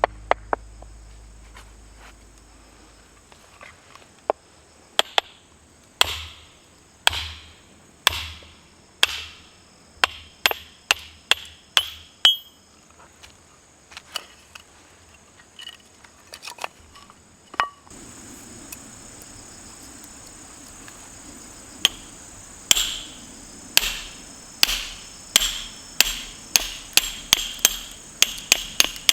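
Repeated hammer blows on metal, each with a short ring. They come about once a second, then faster, about twice a second, near the end.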